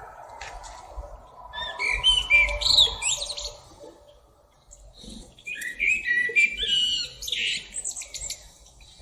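Sabiá-preta, a Turdus thrush, singing in two bursts of quick, varied whistled phrases, the first about two seconds in and the second around six seconds in.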